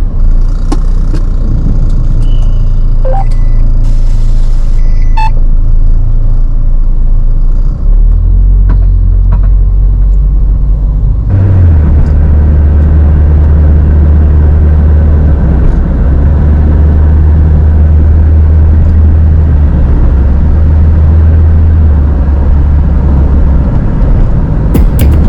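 A car driving on a highway: a loud, steady low rumble of road and engine noise. About eleven seconds in, a hiss across the middle range suddenly grows louder.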